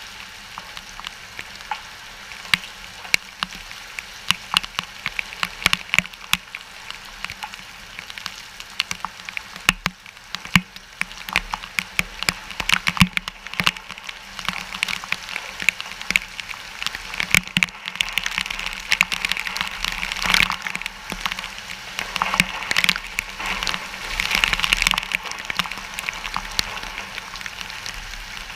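Rain from a hurricane rain band falling on a hard surface: dense, irregular drops and taps over a steady hiss. It gets heavier about halfway through, with the strongest gusts of drops near the end.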